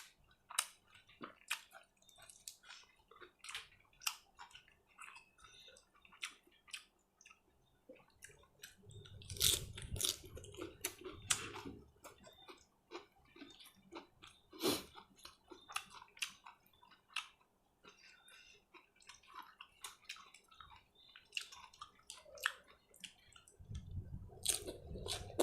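A person chewing and smacking with the mouth close to the microphone, eating grilled pork nam tok salad with sticky rice. The sound is a dense, irregular run of small wet clicks, with a couple of stretches of low muffled rumble in between.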